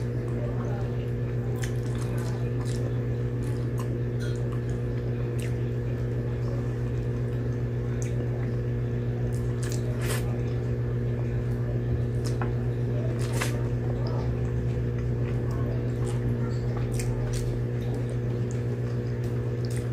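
Close-up wet chewing and lip-smacking of someone eating saucy lechon paksiw and rice by hand, with scattered sharp mouth clicks and finger-sucking, over a steady low hum.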